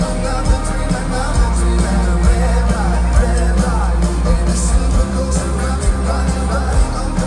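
Folk-rock band playing a song live, with a sung vocal line over the full band.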